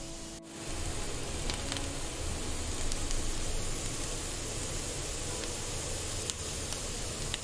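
Diced potatoes frying in oil in a pan, with a steady sizzle that starts after a brief drop-out about half a second in.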